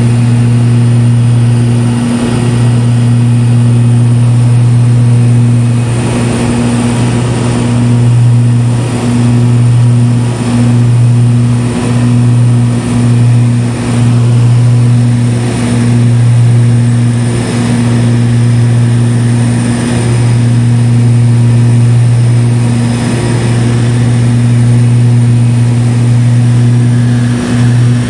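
Propeller plane's engine and propeller droning steadily, heard from inside the cabin: a loud, even low hum with a few brief dips in level.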